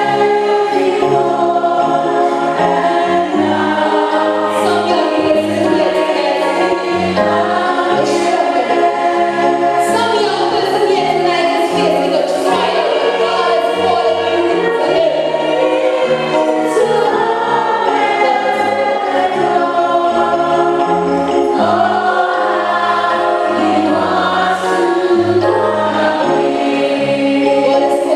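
Church choir singing, with many voices holding sustained chords that change every second or two over a steady bass line.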